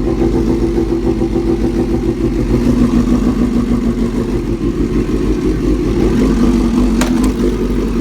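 2005 Suzuki GSX-R750's inline-four engine running steadily, its pitch dropping slightly about three seconds in, with one sharp click near the end. The owner reports no abnormal noises from the motor.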